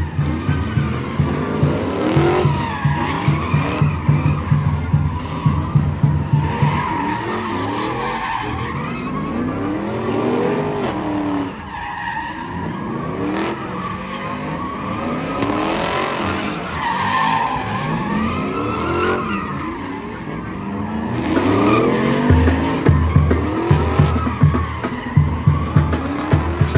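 A vehicle doing a burnout: the engine revs up and down again and again and the tires squeal, with music with a steady beat underneath.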